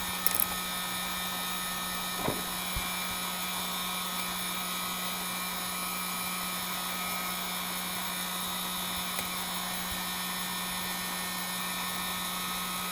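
Heat gun running steadily with a constant hum, with a few light clicks about a second and a half apart near the start.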